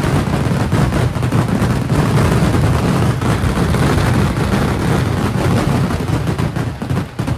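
Kerala temple fireworks (vedikkettu): a dense barrage of firecracker blasts so rapid that the bangs merge into one continuous deep rumble, easing a little near the end.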